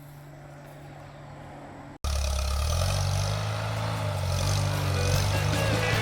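A faint steady hum, then, after a sudden cut about two seconds in, a small tractor engine running loudly with shifts in pitch.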